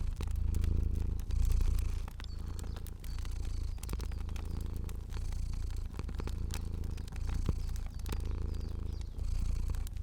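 Cat purring, a deep rumble rising and falling about once a second with each breath, over the scattered snaps and pops of a crackling fire.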